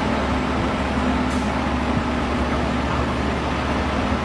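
Steady street traffic noise with a motor vehicle's engine running, a low steady hum beneath it.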